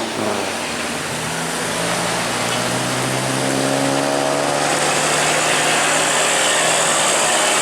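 A road vehicle's engine pulling and slowly rising in pitch over the first few seconds, over steady road and tyre noise that gets a little louder in the second half.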